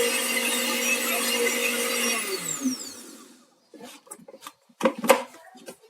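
Countertop blender beating eggs, running steadily and then switched off about two seconds in, its motor dropping in pitch as it winds down. Then a few light clicks and knocks.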